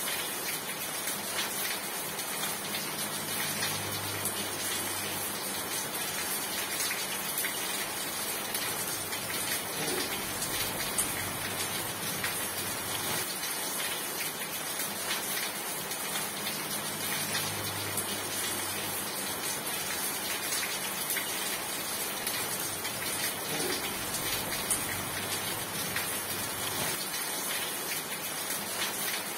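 Steady heavy rain falling, a dense even hiss of countless drops pattering on surfaces, with a faint low hum rising and fading a few times underneath.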